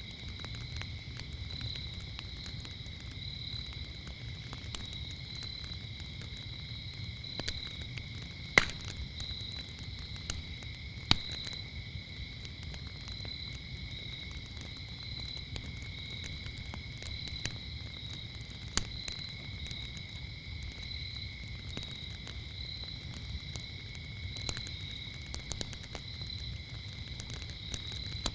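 Wood fire crackling with scattered small snaps and a few sharp pops, the two loudest close together about a third of the way in. Under it runs a low steady rustle, and over it a continuous high chorus of crickets chirping in a gently pulsing trill.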